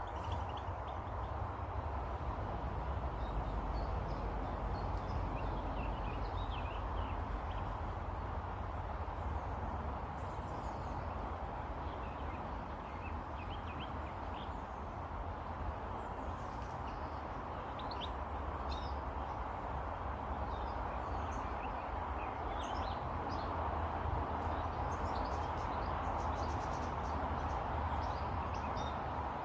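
Small birds giving short, high chirps scattered throughout, over a steady low rumble and hiss.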